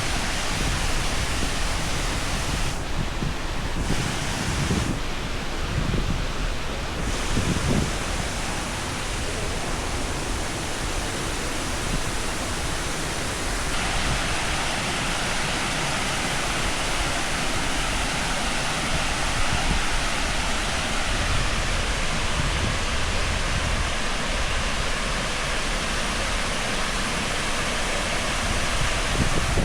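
Steady rushing of a tall waterfall, a constant broad noise of falling water.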